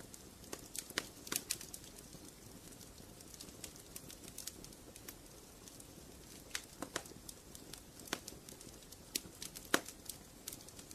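Wood fire crackling in a fireplace: irregular sharp pops and snaps over a low steady hiss, with a few louder pops, the sharpest near the end.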